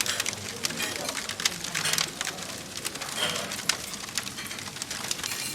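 Wood fire crackling in a fireplace, with irregular snaps and pops over a soft steady hiss.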